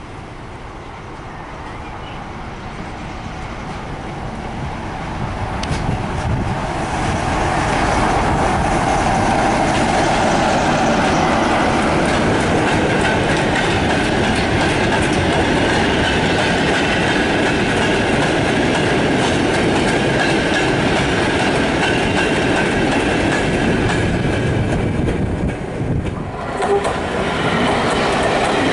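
A locomotive-hauled goods train of tank and ore wagons approaching and passing close by. Its sound builds over the first eight seconds to a steady rumble of wheels clattering over the rail joints. After a brief lull near the end, a green diesel multiple-unit coach passes close by.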